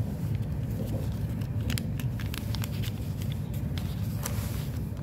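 Steady low rumble of an electric commuter train running along the track, heard from inside the carriage, with a scatter of short sharp clicks and rattles in the middle.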